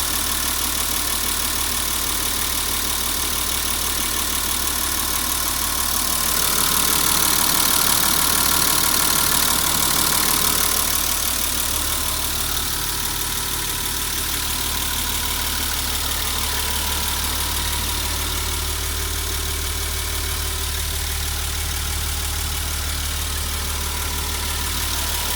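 Nissan TD42 4.2-litre inline-six diesel engine idling steadily, with a louder stretch of a few seconds starting about six seconds in before it settles back.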